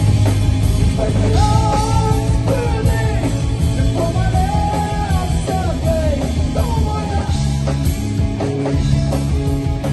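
A rock band playing live: a full band with guitar and bass, and a sung or lead melody line over it.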